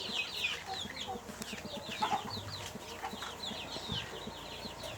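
A brood of young chickens (chicks) peeping: many short, high cheeps, each sliding downward, overlapping in a steady chorus.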